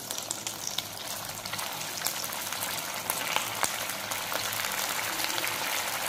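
Green-pea kachoris with a semolina shell deep-frying in hot oil, sizzling with dense, irregular crackling that grows louder over the first second or so.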